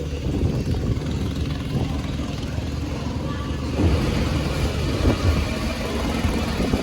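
Boat engine running steadily, a dense low rumble that comes up as it begins.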